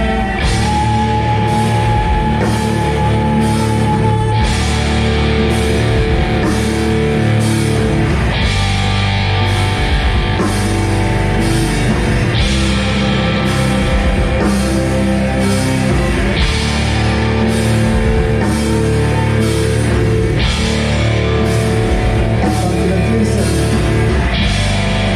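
Live rock band playing loud, heavy music with electric guitars, bass and drum kit, with a cymbal crash about every four seconds.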